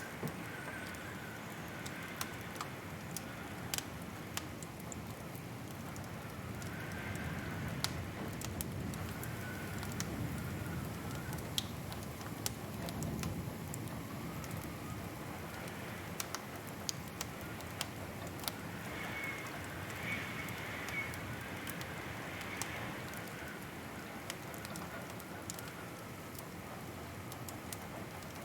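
Wood fire crackling, with irregular sharp pops and snaps over a steady low rumble of burning, and a faint wavering whistle now and then.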